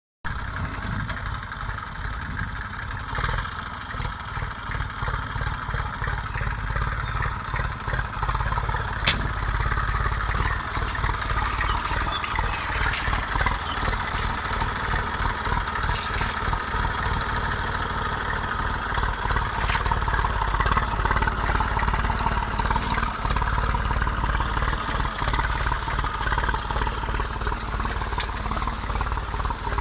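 IMT 539 tractor's three-cylinder diesel engine running steadily, with a fast even firing pulse and a few sharp clicks along the way.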